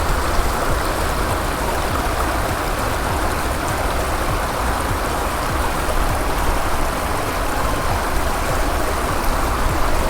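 Steady rushing of running water, like a stream or water feature, with a low rumble underneath.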